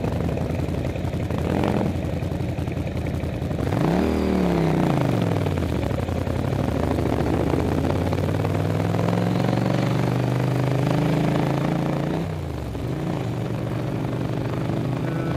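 Motorcycle engine under way, heard from a helmet-mounted camera: a quick rev that rises and falls away about four seconds in, then the pitch climbing slowly as the bike pulls up the grade, easing off suddenly about twelve seconds in.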